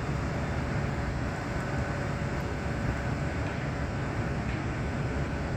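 Steady low rumble of sugarcane mill machinery running, with a faint steady whine above it.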